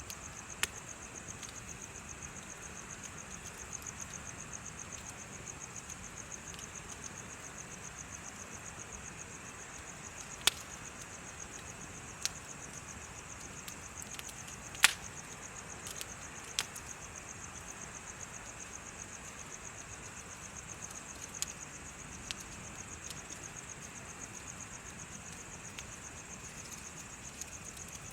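Insects chirping in a steady, fast-pulsed high trill, with a bonfire giving a few scattered sharp pops and crackles, the loudest one about halfway through.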